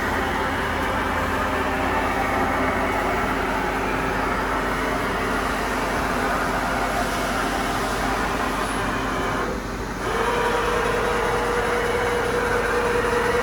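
Hauser SIP MP 53 CNC jig boring machine running, a steady mechanical hum with several held tones. About ten seconds in the sound dips briefly, then gives way to a new, stronger steady hum.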